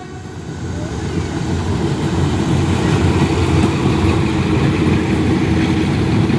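Diesel locomotive engine running with a heavy low rumble and a steady hum, growing louder over the first couple of seconds and then holding steady.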